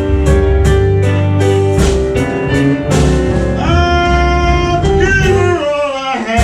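Blues band playing live: drums, bass and guitar. About halfway in the drum hits drop away and a held lead line comes in, bending up and down in pitch.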